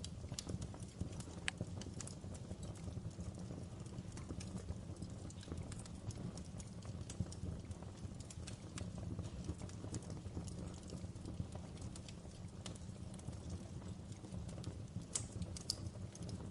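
Fire crackling in a fireplace: scattered sharp pops over a steady low rumble, with a few louder pops near the end.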